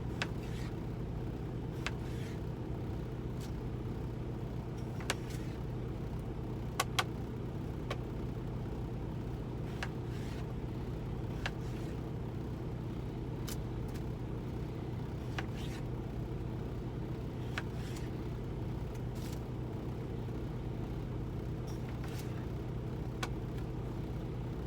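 Semi truck's diesel engine idling with a steady low drone, and scattered sharp clicks and knocks from potatoes being cut with a knife.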